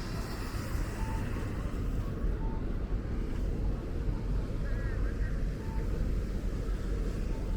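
City street ambience: a steady low rumble of traffic, with a few short faint beeps.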